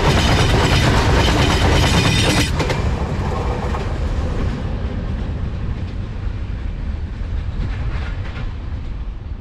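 Open-top freight wagons of a goods train rattling past on the rails, wheels clattering over the track. The last wagon passes about two and a half seconds in, cutting off the sharp clatter, and a low rumble then fades as the train pulls away.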